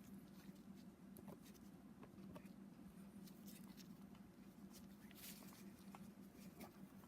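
Near silence: a steady low hum with scattered faint clicks and taps of hand tools being handled, as a torque wrench and angle gauge are set up on the connecting rod bolts.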